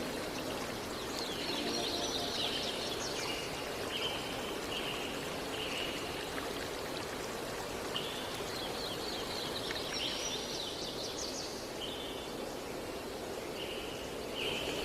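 Steady rush of flowing water with birds calling over it: short repeated notes and quick chirping phrases, in two bouts.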